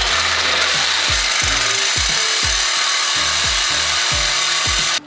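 Power saw cutting through the exhaust pipe to remove the resonator-muffler: a steady, harsh cutting noise that stops abruptly near the end.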